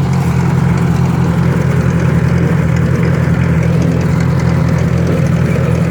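Tractor engine running steadily at a constant speed, a loud, even low drone.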